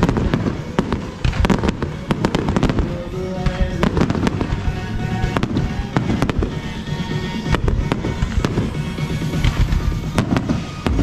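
A fireworks display: many sharp bangs and pops in quick succession, with music playing alongside.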